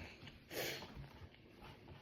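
Close-miked eating sounds: a person chewing a mouthful of rice and vegetables, with one short, loud breathy burst through the nose or mouth about half a second in.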